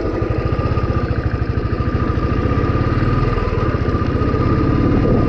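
Royal Enfield Thunderbird's single-cylinder engine running with an even, rapid beat, a steady high whine above it.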